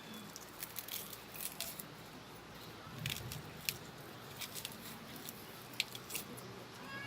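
Stone grinding roller (batta) working on a flat grinding stone (sil): irregular clicks and scrapes of stone on stone, with a heavier knock about three seconds in.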